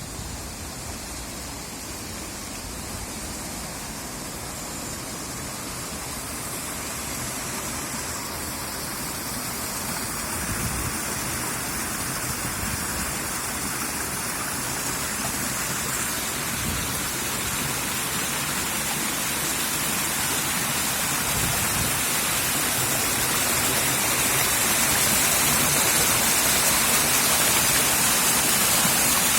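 Floodwater rushing in a steady hiss of running water, growing gradually louder and brighter.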